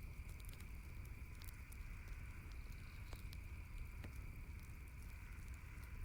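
Campfire crackling: scattered sharp pops and snaps, irregularly spaced, over a low steady rumble and a faint steady high-pitched hiss.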